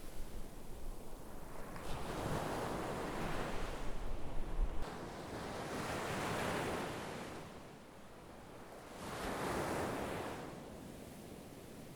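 Sea surf washing in and drawing back, the rush of the waves swelling and fading about three times. A low wind rumble on the microphone cuts off about five seconds in.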